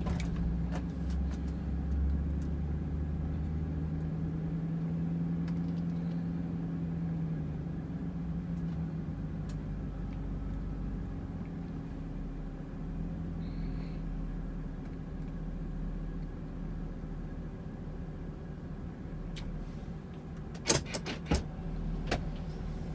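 A truck's engine running, heard from inside the cab as a steady low hum, with a few sharp clicks and knocks near the end.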